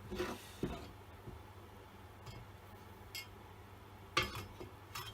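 Light metallic clicks and knocks as a chainsaw guide bar and its parts are handled and fitted, a few scattered taps with the loudest one a little past four seconds in.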